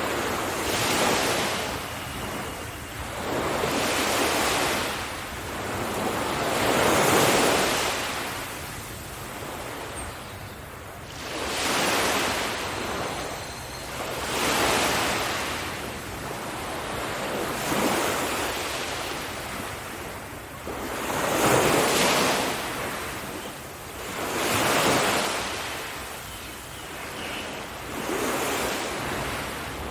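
Sea waves breaking on a beach, the surf swelling and falling away again every three seconds or so.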